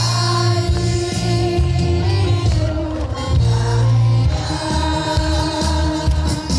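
Live trot music through a stage sound system: a band with a steady bass line under held melody notes, and a singing voice over it.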